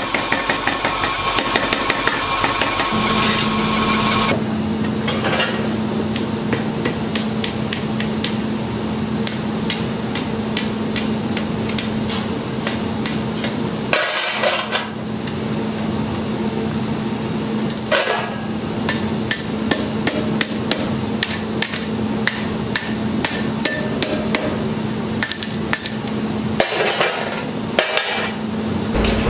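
Metal hammer blows forging iron on an anvil: a steady run of sharp strikes, several a second, some leaving a high ringing, over a steady low hum.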